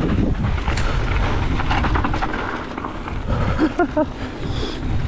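Wind buffeting the microphone in a steady low rumble while a mountain bike runs down a fast trail, with tyre noise and scattered rattling clicks from the bike.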